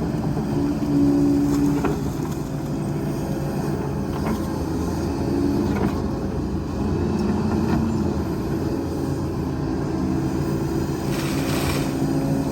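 Heavy diesel earthmoving machinery, an excavator and dump trucks, running steadily with a low rumble. There are a few sharp knocks, and a short hiss about eleven seconds in.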